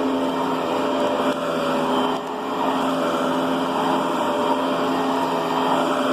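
Riccar Brilliance upright vacuum cleaner running steadily, its motor making a continuous whine over a rush of airflow that rises and falls slightly.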